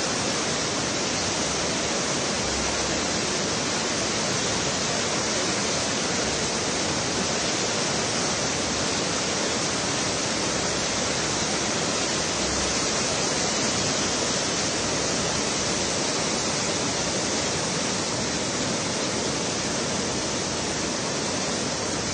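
Swollen river in flood, its water rushing past in a steady, unbroken hiss.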